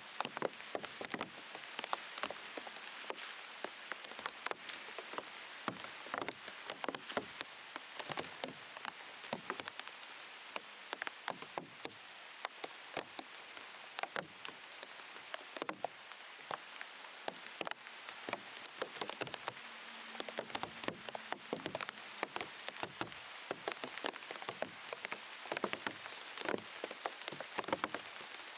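Rain falling, with raindrops tapping on a plastic sheet wrapped over the camera: dense, irregular sharp pops over a steady rain hiss.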